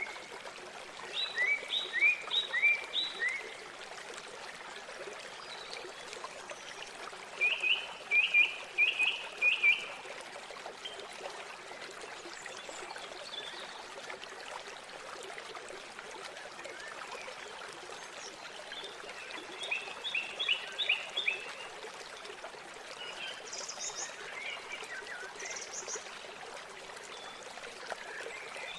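River water flowing in a steady rush, with birds calling over it. Three runs of quick, repeated chirps come about a second in, near eight seconds and near twenty seconds, and a few higher calls follow later.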